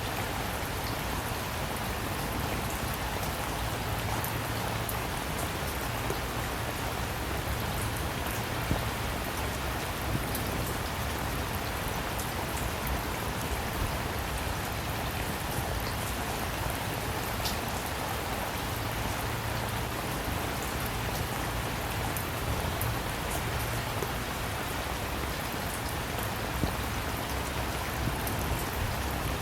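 Steady rain falling, with individual drops ticking sharply now and then over an even wash, and a low steady rumble underneath.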